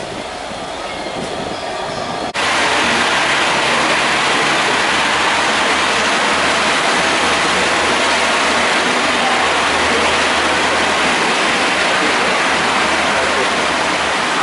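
Pacer diesel railbus running along the platform close by: a loud, steady rush of wheel-on-rail noise over a low hum. It starts abruptly about two seconds in, after a quieter station background.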